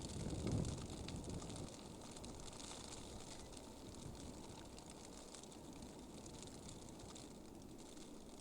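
Blizzard ambience: a steady wind hiss with fine scattered ticking, and a brief low buffet of wind on the microphone about half a second in.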